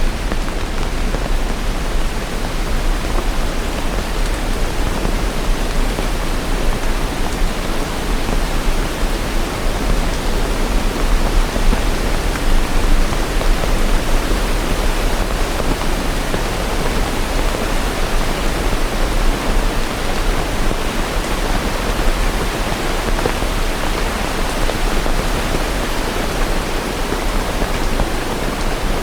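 Steady heavy rain: a dense, even hiss of rainfall with no single drops or thunder standing out.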